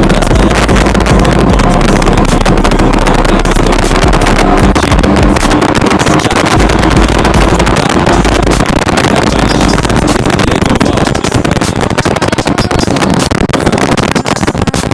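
Sport motorcycle running at speed, with wind noise on the microphone.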